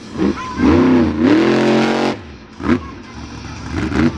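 Monster truck engine revving in bursts: one long rev lasting about a second and a half, then a short blip near the middle and another near the end.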